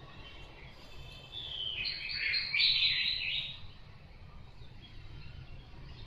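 A songbird's chirping song, a loud burst lasting about two seconds near the middle, over a faint low background hum.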